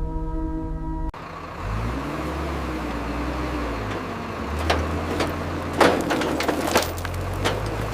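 A motor vehicle's engine running steadily at low pitch. A cluster of sharp knocks and clunks comes in the second half.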